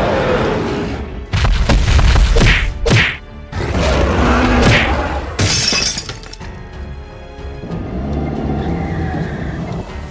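Background music with loud crash and impact sound effects laid over it for about the first six seconds; after that, the music plays on alone.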